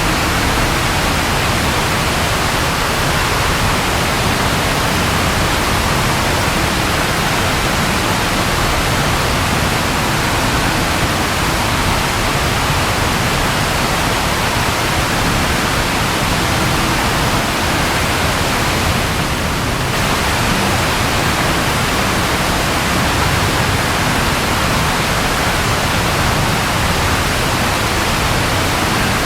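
Steady, dense rainfall: an even hiss with no thunder, dipping slightly for a moment a little past the middle.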